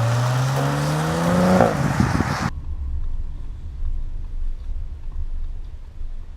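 Audi RS4 Avant's 2.9-litre twin-turbo V6 accelerating hard, its note rising steadily before a gear change. The engine sound cuts off abruptly about two and a half seconds in, leaving low wind rumble on the microphone.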